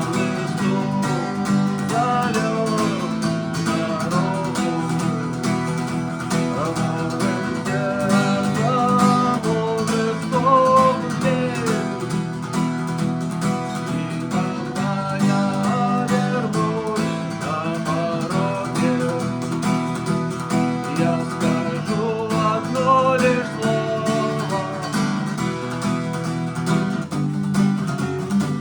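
Acoustic guitar strummed steadily in chords, with a melody line over it.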